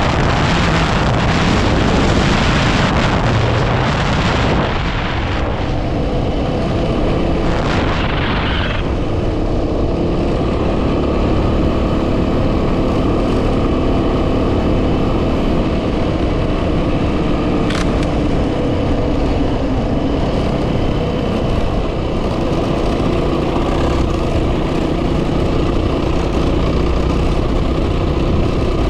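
Yamaha WR250R's single-cylinder four-stroke engine running steadily under way, with heavy wind noise on the microphone. The wind rush is loudest for the first several seconds, then dies down and leaves the engine's steady hum clear.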